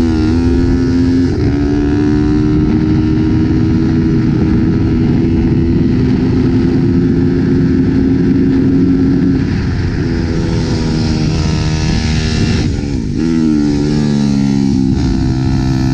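IMR CUP pit bike's Daytona 190 cc single-cylinder four-stroke engine running hard on track, heard onboard. The revs hold high and steady, fall away about ten seconds in with a brief lift off the throttle, then climb again near the end.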